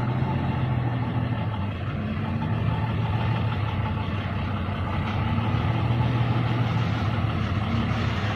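Diesel engine of a modified Hino truck running steadily under load, its note dipping slightly and then rising a little about five seconds in.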